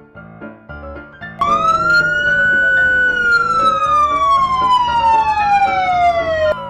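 Dogs howling over soft piano music: a long howl rises, holds, then slides slowly down, while a lower second howl dips and rises beneath it. The howls stop abruptly near the end.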